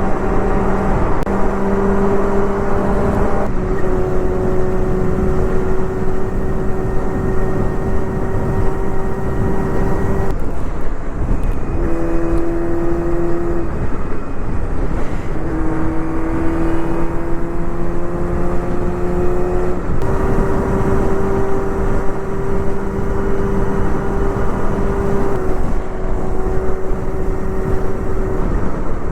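Honda Hornet 250's inline-four engine through a Pretty Racing aftermarket muffler, ridden at steady high revs, its pitch stepping between levels several times and rising slowly for a few seconds past the middle, under a constant rush of wind.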